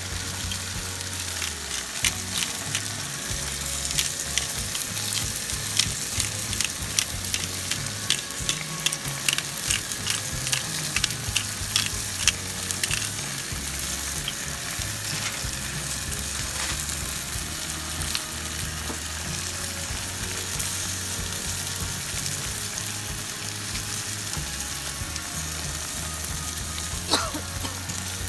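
Breaded cutlets in oil and sliced onions and green peppers frying on a camp stove, sizzling steadily. Many sharp spattering pops and crackles come through the first half.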